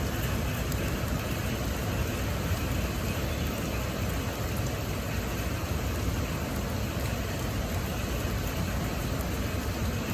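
Heavy rain falling in a strong wind: a steady, unbroken rush of noise, heaviest in the low end.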